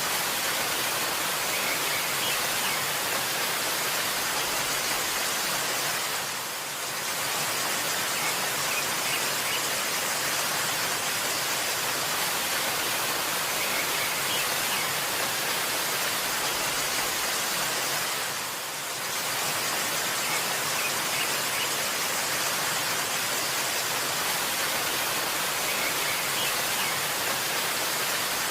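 Waterfall's steady rush of water, dipping briefly twice, with faint high bird chirps now and then.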